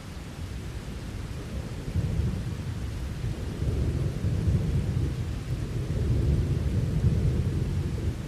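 Thunder rumbling over steady rain; the low rumble swells about two seconds in and grows louder toward the end.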